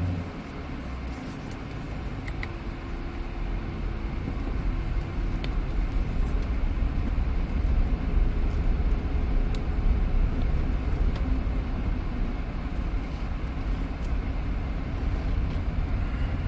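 Car engine and road noise heard from inside the moving car; the low rumble grows louder over the first several seconds, then holds steady.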